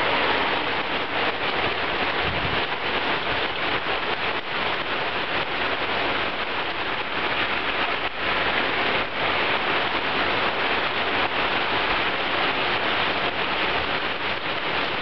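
Heavy rain pouring steadily, a dense even hiss of drops hitting roofs, pavement and plants.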